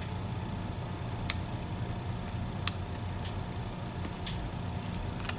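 Small metallic clicks of a lock pick working the sliders inside an EVVA ICS lock: two sharper clicks about a second and a half apart and a few fainter ticks, as the sliders are being set. A steady low hum runs underneath.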